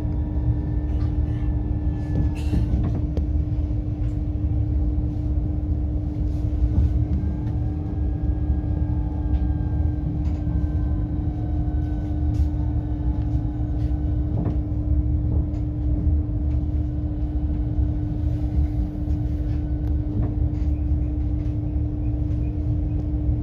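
Cabin running noise of a Southeastern Class 395 high-speed electric train on the move: a steady low rumble with a constant hum. Faint whining tones slide slowly in pitch, and there are scattered light clicks and knocks from the wheels on the track.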